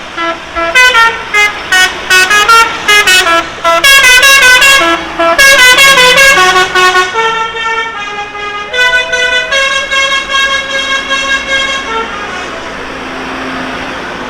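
A musical vehicle horn playing a tune: a run of quick, loud, short notes, then a few longer held notes, stopping about two seconds before the end.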